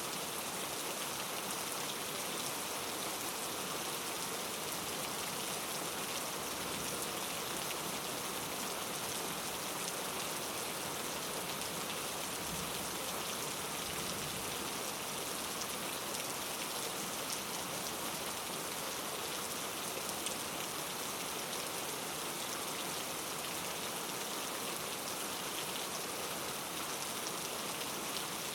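Steady rain falling and pattering on a surface, an even hiss with fine drop detail and no change in intensity.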